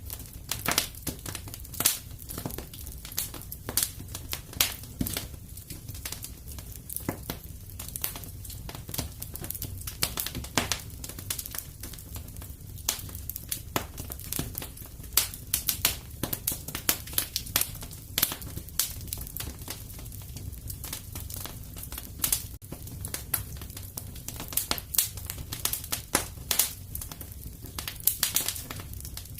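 Wood fire burning in a fireplace: a steady low rumble of flames with dense, irregular crackles and pops.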